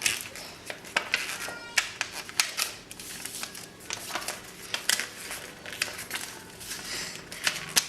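A sheet of paper being handled, folded and creased by hand into a paper airplane, making irregular sharp rustles and snaps.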